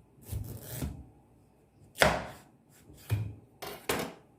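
A knife chopping into a hard pumpkin. There is a little scraping in the first second, a loud sharp knock about two seconds in, and three more knocks near the end.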